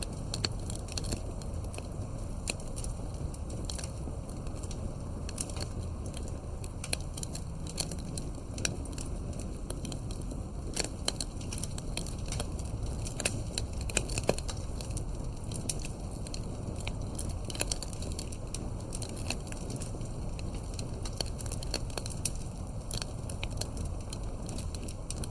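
Campfire crackling, with irregular sharp pops and snaps over a steady low rumble; the pops come thickest about halfway through.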